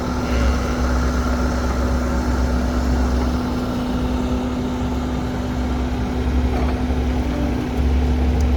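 Heavy diesel engines of an excavator and dump truck running steadily during loading, a continuous low rumble that swells and eases a little.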